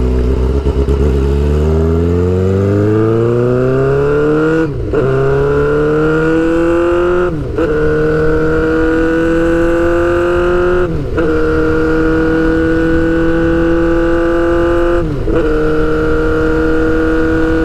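Suzuki GSX-R600's inline-four engine pulling away under acceleration, its pitch climbing, then shifting up four times with a brief throttle cut at each change and settling to a steady cruise. The straight-piped exhaust gives a loud hum.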